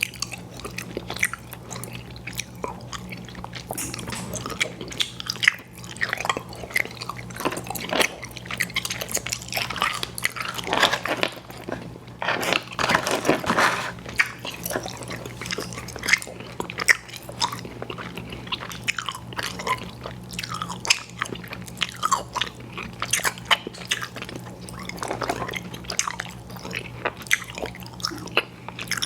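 Close-miked chewing of chewy fruit candies, with many sharp, wet mouth clicks and smacks. The chewing is busiest in the middle. A steady low hum runs underneath.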